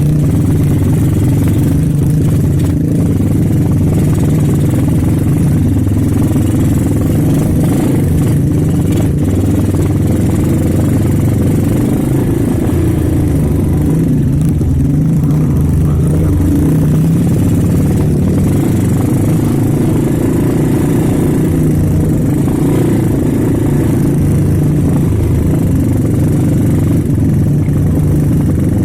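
Motorcycle engine running steadily while riding: a loud, even low drone.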